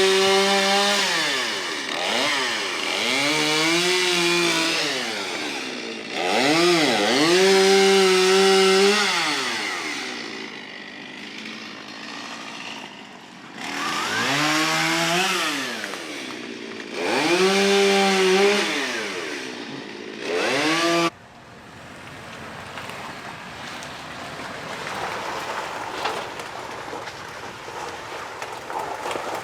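Two-stroke chainsaw revving and cutting through fallen tree limbs. Its pitch repeatedly drops and climbs back up between stretches at full throttle. It cuts off abruptly about two-thirds of the way through, leaving a faint steady hiss.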